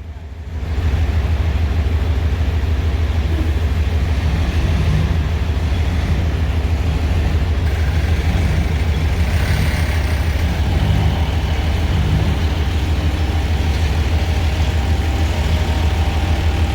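A heavy vehicle engine running steadily with a deep, even hum that comes up about half a second in. It is most likely the forklift working under a heavy load.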